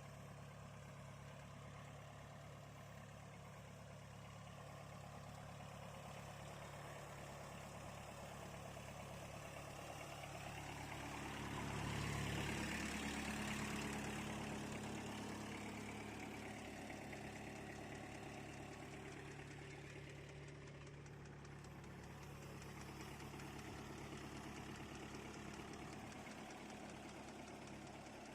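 VST Shakti mini tractor's diesel engine running steadily, swelling louder for a few seconds about twelve seconds in, then easing back.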